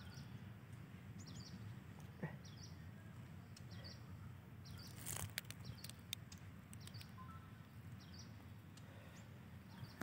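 A bird repeating a short, high chirp roughly once a second, faint over a low background rumble, with a few sharp clicks about five seconds in.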